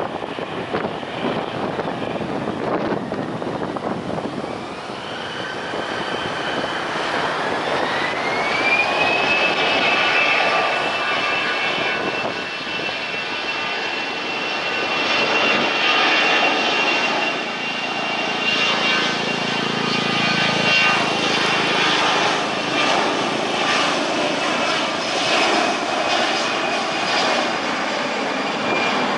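Jet airliner engines running: a whine rises in pitch over about five seconds, then holds steady over a rushing noise.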